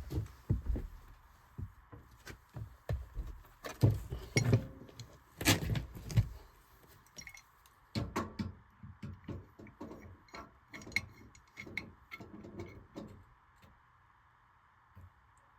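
Irregular metallic clinks, taps and knocks of hand tools and sheet-metal furnace parts being handled during disassembly, stopping near the end.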